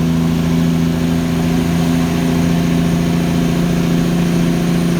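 Kenworth T800 truck's diesel engine running steadily, a constant low drone with no change in pitch.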